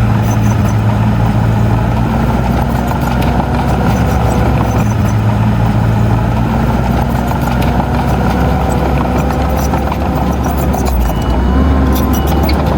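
Diesel engine of a piece of earthmoving machinery running steadily, with its engine note changing briefly near the end.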